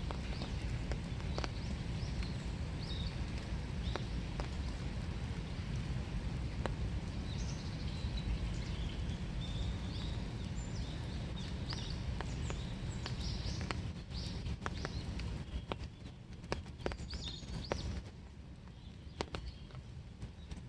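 Winter rain falling steadily under a low rumble, with scattered sharp drip ticks and small birds calling in short chirps through most of it. The steady hiss thins out in two steps in the later part, leaving mostly the ticks.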